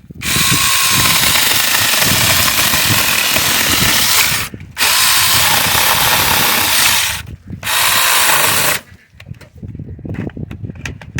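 Battery-powered 6-inch mini chainsaw running in three bursts of about four seconds, two and a half seconds and one second, stopping briefly between them as the trigger is released.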